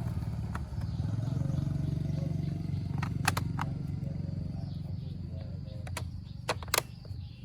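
A small motorcycle engine running steadily at idle. It dips briefly near the start, then picks up again. A few sharp metallic clicks come about three seconds in and again near the end.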